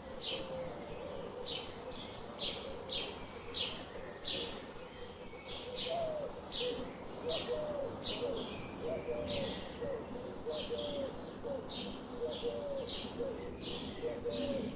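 Several birds calling together: short, high chirps repeating about twice a second, with lower, wavering cooing notes joining in about halfway through.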